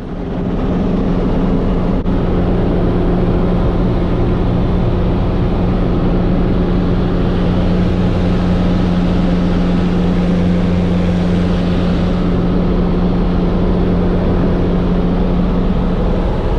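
Guimbal Cabri G2 helicopter running steadily, a loud constant drone with a strong, even hum.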